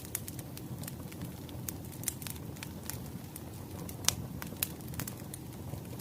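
Wood fire crackling: irregular sharp pops and snaps over a low steady rumble, the loudest pop about four seconds in.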